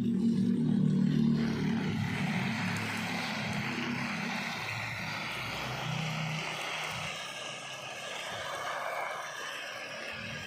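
A low motor drone fades out over the first few seconds. A steady hiss of water spraying onto pak choi plants comes in about two seconds in and carries on.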